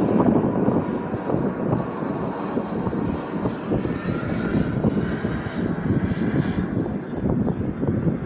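Engine drone of a fixed-wing firefighting aircraft flying over the fire, running steadily and fairly loud throughout.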